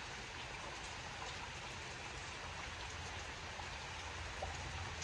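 Rain falling steadily: an even hiss with a few faint drip ticks.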